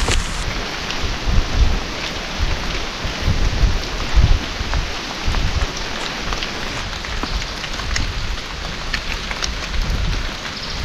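Steady rain falling on forest foliage, with many small drop ticks, while strong wind buffets the microphone in low, uneven gusts.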